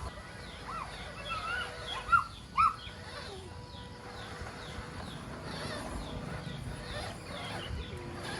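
Short bird-like chirping calls, two sharp loud ones about two seconds in, then fainter repeated falling chirps over a steady background hiss.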